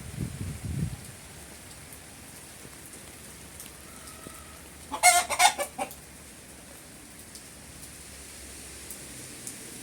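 Steady rain falling, with a chicken calling once for about a second, about five seconds in. A low rumble fades out in the first second.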